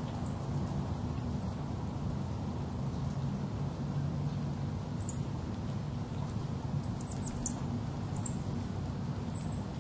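Small birds chirping high and thin, a few short calls scattered through and a quick run of them about seven seconds in, over a steady low hum.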